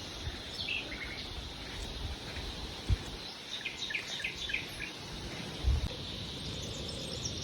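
Small birds giving short chirps in two clusters, about a second in and again around four seconds, over a steady faint high insect hum. Two brief low thumps, at about three seconds and near six seconds, are the loudest sounds.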